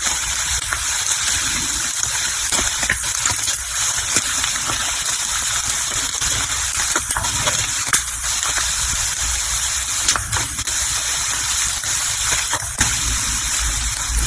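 Large paneer pieces shallow-frying in ghee in a pan: a steady sizzle with scattered small pops and crackles.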